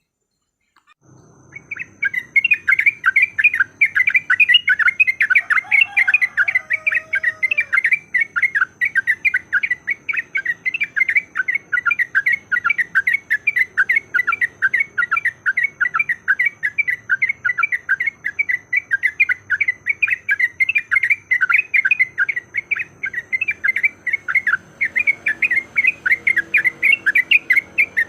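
Sooty-headed bulbul (trucukan) chattering in a fast, unbroken run of short notes, about three or four a second, starting about a second in. A brief lower sliding call comes in about six seconds in.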